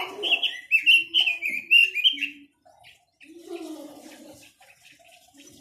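Songbird of the kind sold in Vietnam as 'quế lâm' singing a fast run of warbling, chirping notes for about two seconds, then fainter, lower sounds.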